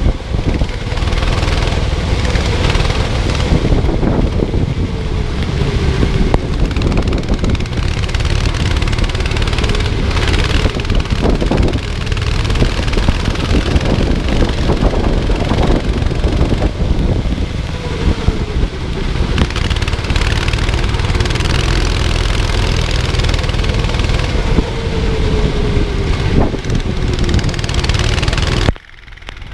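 Racing kart engine running hard on track, its pitch rising and falling as the kart accelerates and brakes, under heavy wind buffeting on the microphone. The sound dips sharply for a moment near the end.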